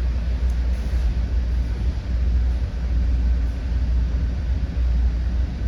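Steady low rumble heard inside a commuter train coach.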